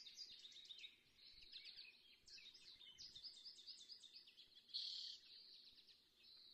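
Faint birdsong: small birds twittering in quick runs of high chirps, with a brief louder call about five seconds in.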